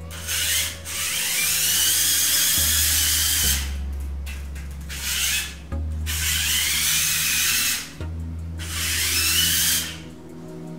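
Small electric drive motors and gearing of a HEXBUG VEX Robotics Offroad Truck whining as the toy truck drives across a wooden floor. It comes in several spurts with short pauses, and the whine rises and falls in pitch as the truck speeds up and slows.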